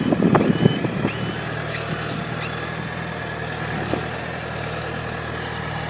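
Sidewalk snow plow's engine running steadily. Irregular crunching noises come in the first second.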